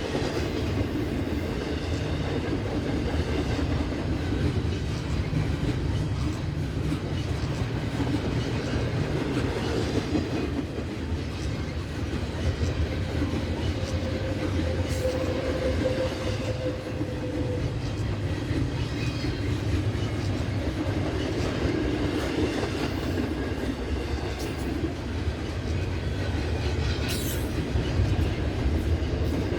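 Freight train rolling past on the rails, a steady heavy rumble of wheels and cars over the track, with a brief faint tone about halfway through.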